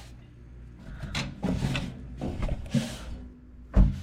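Objects being handled and set down during toaster-oven cleaning: several short, irregular clatters and rubs, then one loud knock near the end.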